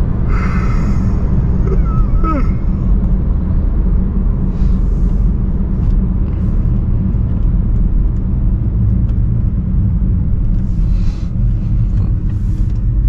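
BMW 335i's N55 turbocharged 3.0-litre inline-six exhaust at a steady cruise, heard from an exhaust-mounted microphone as a constant low rumble with no revving.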